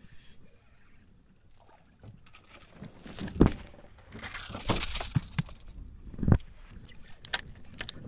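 Irregular knocks and thumps in a small boat, with a burst of splashing water about four and a half seconds in. The loudest knocks come about three and a half and six seconds in.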